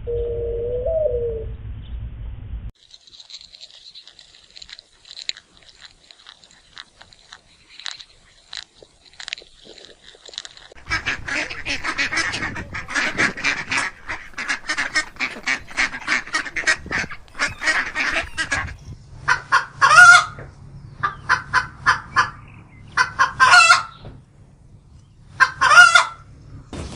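A run of different animal calls: a low cooing call in the first few seconds, then a faint, thin high whine with scattered ticks, then dense rapid chattering, and finally loud honking calls, three of them standing out, with softer calls between.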